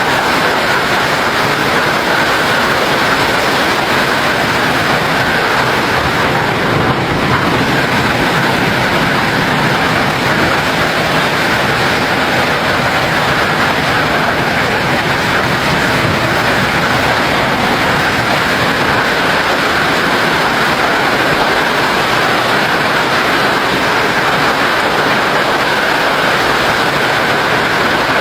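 Hailstorm: hail and rain beating down in a loud, dense, unbroken clatter.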